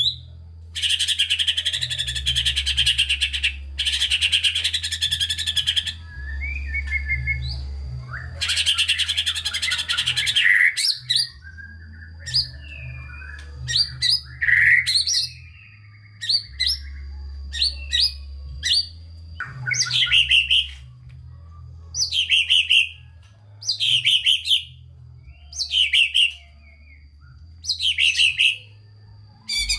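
White-rumped shama (murai batu) singing: three long, rapid rattling trills in the first ten seconds, then varied short phrases, and in the second half a short phrase repeated about once a second.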